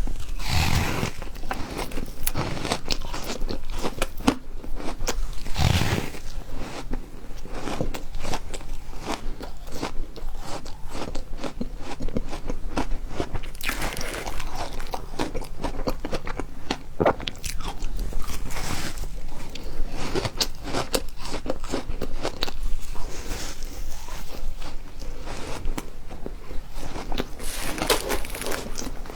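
A person biting and chewing refrozen ice: dense, continuous crackly crunching, with heavier bites near the start, about six seconds in, around fourteen and eighteen seconds in, and near the end.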